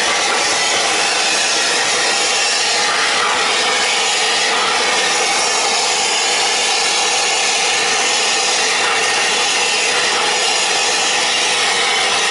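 Air-acetylene torch on a B tank burning with a steady, loud hiss as it melts ice off a refrigeration compressor's suction accumulator.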